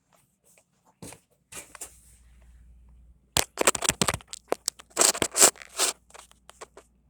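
Handling noise from a camera being set down: rubbing and scraping against the microphone, with two bursts of sharp knocks and scrapes about three and a half and five seconds in.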